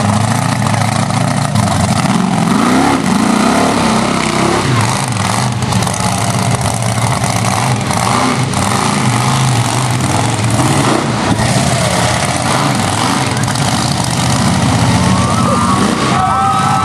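Monster truck engine running loud and revving, its pitch rising and falling. Near the end, high-pitched shouting from the crowd begins.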